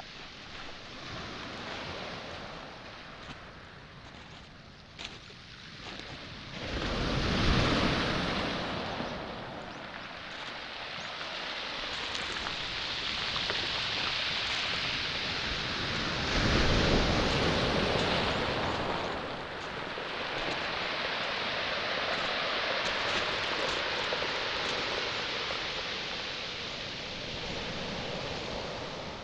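Sea waves breaking on a pebble shore, with two larger breakers about seven and sixteen seconds in and the water hissing as it washes over the stones in between. A few light crunches of footsteps on pebbles come in the first few seconds.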